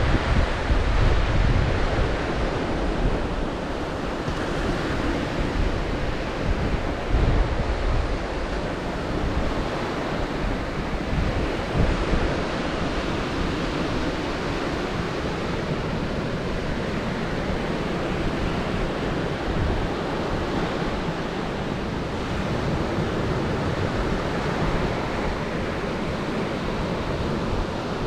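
Sea waves washing and breaking on the shore in a continuous surf noise, with wind buffeting the microphone in low rumbles, strongest in the first several seconds.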